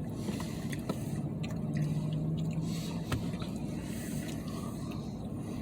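Steady low rumble inside a parked truck's cab, with faint scattered clicks and a brief low hum about two seconds in.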